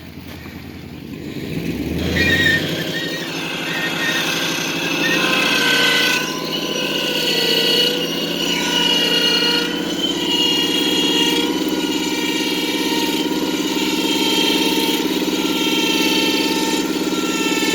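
Bale truck's engine speeding up about two seconds in and then running steadily at raised revs with a whine, working the bale bed's hydraulics to raise the bale.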